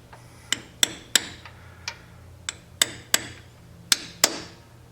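A hammer tapping on a socket to drive a new oil seal into a Hydro Gear transmission. About nine sharp metallic taps at an irregular pace, several coming in quick pairs.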